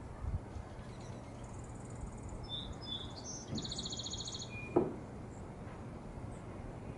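A small wild bird calling: a few short high chirps, then a quick rapid trill lasting about a second, over a steady outdoor background hiss. A single sharp knock follows just after the trill.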